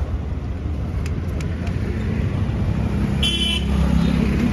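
Tractor engine running steadily, with a low rumble that builds slightly in the second half. A short high-pitched horn toot sounds about three seconds in.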